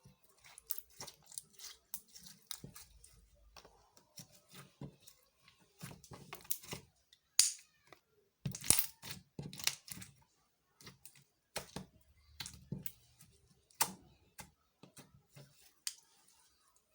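Slime being handled: an irregular run of sticky pops, clicks and crackles, with a couple of sharper, louder pops about halfway through.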